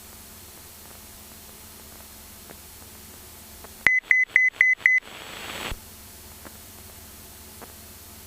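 Five quick, loud electronic beeps on one pitch in the headset audio of a Cessna 172's Garmin G1000, the altitude alert telling the pilot the aircraft is off the altitude set for the autopilot. A short swell of radio hiss follows and cuts off suddenly; under it all runs steady intercom hiss.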